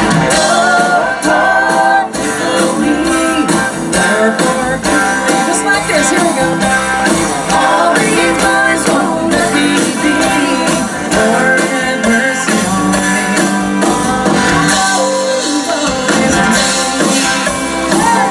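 Live band music with strummed guitar and a singer.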